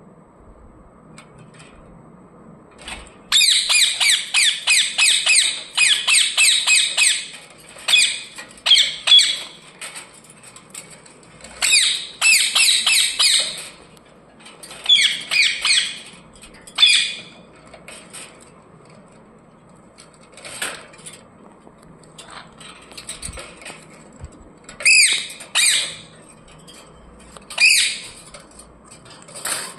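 Pet parrot squawking in loud, rapid runs of harsh calls: a long run starting about three seconds in, then shorter bursts every few seconds.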